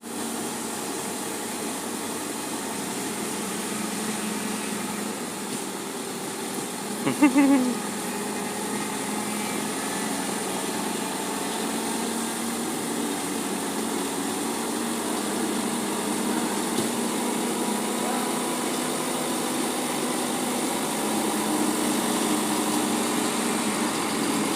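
Truck engine running steadily under a constant drone, with a brief louder pitched sound about seven seconds in.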